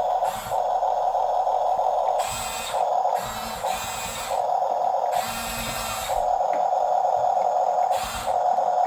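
Huina 1:16 RC bulldozer's electric drive motors and gearbox whining in repeated bursts of a second or so as it drives and pushes, over a steady hum from the running toy.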